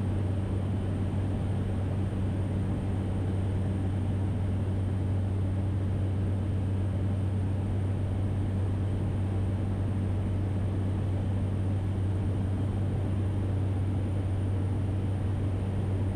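Cessna Caravan's single turboprop engine and propeller heard steadily from the cockpit: a deep, even drone with a faint thin high tone above it, unchanging throughout.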